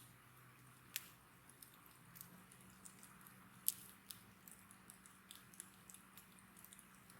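Wood fire crackling quietly, with scattered sharp pops of burning wood, the loudest a little past halfway, over a faint hiss of flames.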